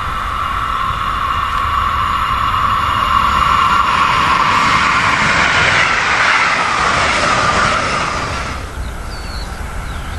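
An electric regional passenger train of red coaches passes close by at speed, wheels running on the rails, over a steady high whine. The rush of the passing train builds to its loudest about halfway through, then cuts off abruptly near the end.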